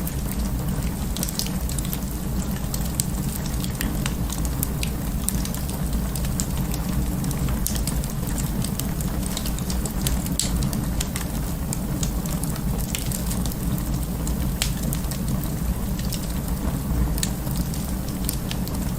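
Fire in an open fireplace crackling: a steady low rumble of flames with frequent, irregular sharp pops and snaps.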